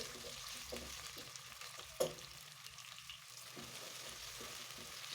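Diced onions sizzling in hot vegetable oil in a pan, a steady frying hiss, with a single sharp knock about two seconds in.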